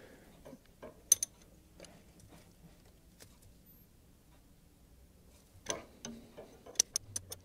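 A few sharp metallic clicks and ticks from a brake line spanner working the brake line unions on an ABS pump: a couple about a second in, a quiet stretch, then a cluster of clicks near the end.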